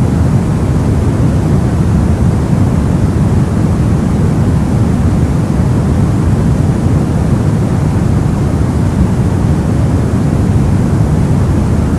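Soft white noise for sleep: a loud, perfectly steady hiss, deep and rumbly rather than bright, with no change or events.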